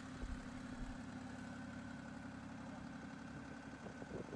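Tractor engine running steadily at idle, a low even hum, with some irregular knocks starting near the end.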